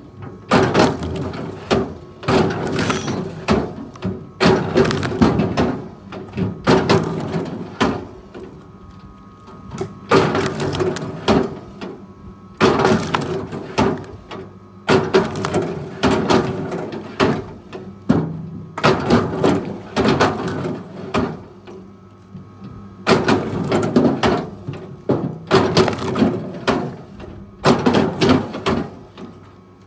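Repeated loud cracking and breaking noises, about one a second, coming in clusters with short lulls between them.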